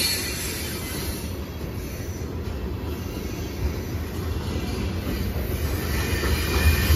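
Freight train of covered hopper cars rolling past close by: a steady low rumble of steel wheels on the rails, with a high wheel squeal coming back in near the end.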